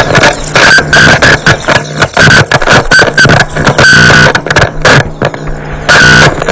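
Harsh noise music: heavily distorted, clipped noise cut into rapid stuttering bursts over a steady high whine and a low drone.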